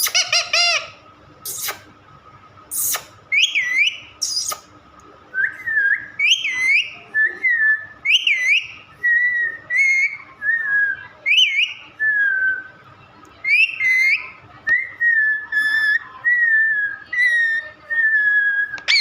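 Pet parrot whistling: a long run of clear whistle notes, about one a second. Some swoop up and down and others are held and slide downward. A few short, harsh calls come in the first few seconds.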